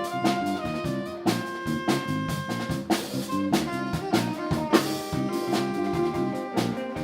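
Live band playing an instrumental jazz groove: drum kit keeping a steady beat under sustained horn lines, with bass and guitar.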